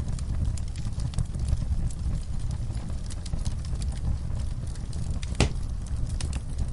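Wood fire crackling in a fireplace: a steady low rumble under frequent small crackles, with one louder pop about five seconds in.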